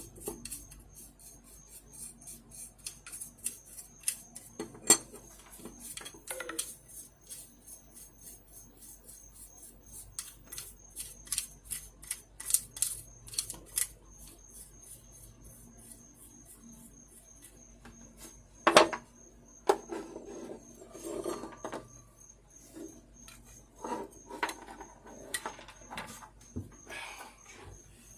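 Small brush scratching and flicking dust out of a box-fan motor's stator, with metal parts clinking and knocking on a hard tabletop. There are many light ticks and scrapes, and one loud knock about 19 seconds in.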